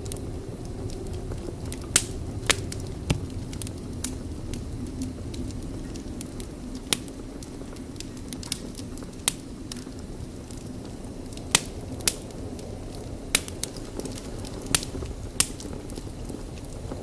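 Wood fire burning in a fireplace: a steady low rumble of flame with about a dozen sharp crackles and pops at irregular intervals.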